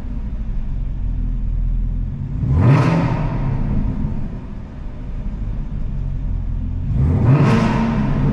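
Chevrolet Camaro ZL1's supercharged V8 idling with a deep rumble, blipped twice: a quick rev that rises and falls about two and a half seconds in, and another near the end. The exhaust echoes off the concrete of a parking garage.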